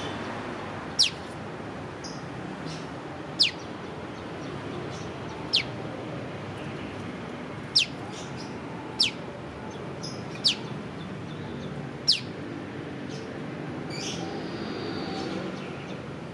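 Prenjak lumut calling single sharp 'piw' notes, each a quick downward whistle, seven times about every one and a half to two seconds, over a steady low background hum.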